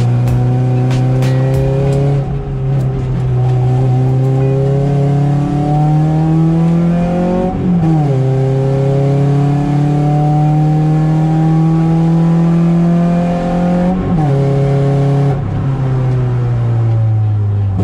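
Renaultsport Clio 172's 2.0-litre four-cylinder engine pulling hard under full load, heard from inside the cabin. The pitch climbs steadily, then drops sharply at upshifts about eight and fourteen seconds in before climbing again.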